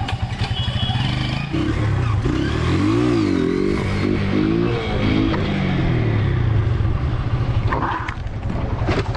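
Motorcycle engine revved up and down several times, then running steadily as the bike is ridden slowly.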